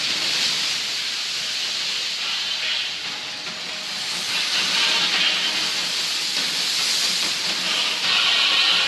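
Steady rushing hiss of steam and spray from Kavachi, an undersea volcano erupting through the sea surface, growing a little louder about four seconds in and again near the end.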